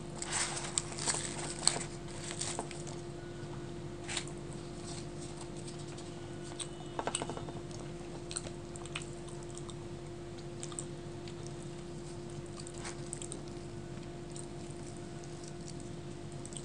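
Close-miked eating sounds: chewing with wet mouth clicks and small crunches as luchi and fried potato are eaten by hand. Busiest in the first two or three seconds and again about seven seconds in, with sparser ticks after, over a steady low hum.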